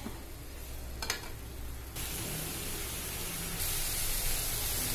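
Shredded cabbage and chana dal sizzling in a little oil in a kadai, a steady frying hiss as the cabbage is sautéed dry before water is added. One sharp click about a second in, and the hiss grows louder about two seconds in.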